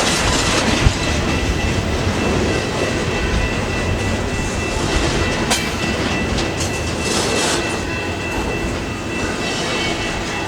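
Freight train rolling past during switching moves: a steady rumble of railcars with wheels clicking over the rail joints, a faint steady high tone above it, and a couple of sharp clanks.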